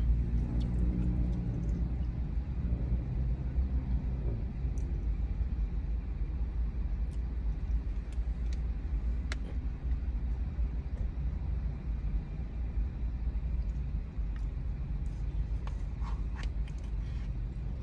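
Steady low rumble of a car's idling engine, heard from inside the cabin, with a few faint light clicks from a plastic spoon in a paper yogurt cup.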